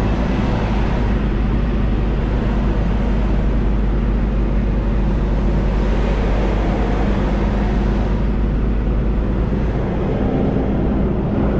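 Semi truck's diesel engine running at low speed while the rig backs up, a steady low rumble whose pitch steps up slightly about ten seconds in.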